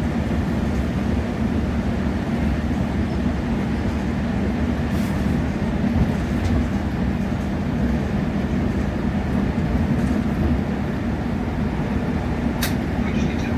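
Steady running noise inside a passenger train carriage at speed: a low rumble with a steady hum, and a couple of light clicks about five seconds in and near the end.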